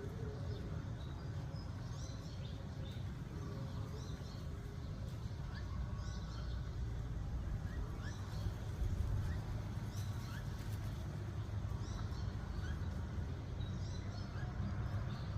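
Wind rumbling on the microphone, with short, scattered bird chirps throughout.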